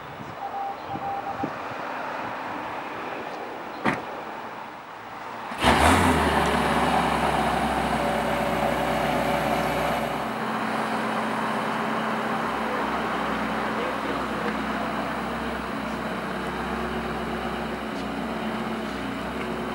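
A single sharp knock, then about five and a half seconds in the Porsche 918 Spyder's 4.6-litre V8 fires up with a loud rev flare on the cold start and, after a few seconds, settles into a steady idle.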